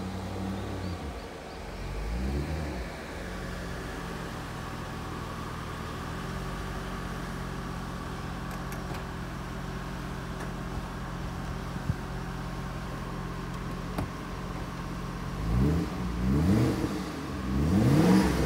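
Mercedes-Benz 500SL's 5.0-litre DOHC V8 through a one-off stainless-steel exhaust: it revs up and back down in the first few seconds, settles into a steady idle, then gives three quick throttle blips near the end. A few light clicks come during the idle.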